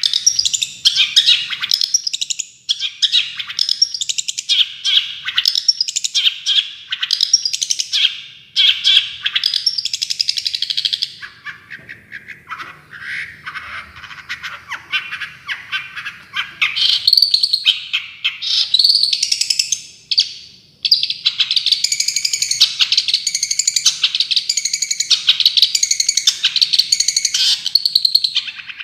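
Long-tailed shrike (cendet) singing a fast, chattering song of rapid high notes: the rapid-fire 'tembakan' phrasing used to train other cendet. It turns softer and lower about halfway through, then breaks into a fast, evenly repeated trill near the end.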